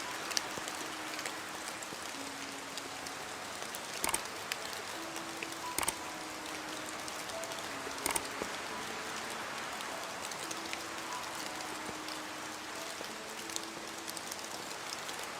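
Steady rain with a few sharp, close drip clicks, about 4, 6 and 8 seconds in, over faint soft music notes.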